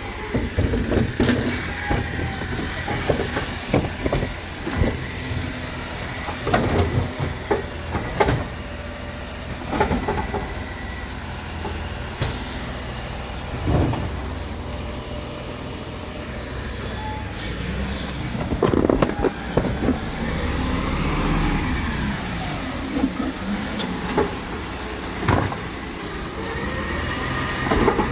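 Rubbish truck engine running steadily, with repeated knocks and bangs from the bin-lifting arm and wheelie bins being tipped. About two-thirds of the way through there is a rising and falling whine.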